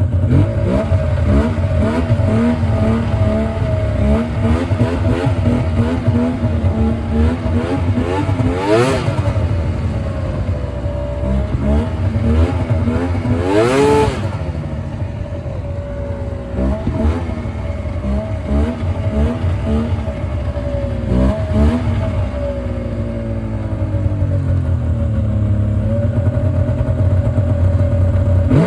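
Yamaha VMAX snowmobile's two-stroke triple engine running unevenly, its idle wavering and sagging, with two quick revs about nine and fourteen seconds in. It is not running happily; the mechanic judges that it is running lean and needs choke to stay running.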